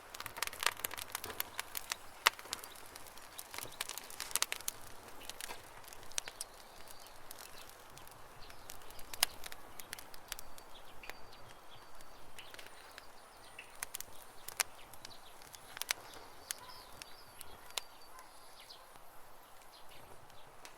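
Wood campfire crackling with sharp, irregular pops, densest in the first few seconds and sparser after, while small birds chirp faintly in the background.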